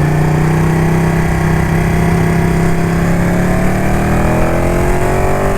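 Ducati motorcycle engine running under way, its note steady at first and then rising from about three seconds in as it accelerates, falling away sharply at the end. A steady rush of wind and road noise runs underneath.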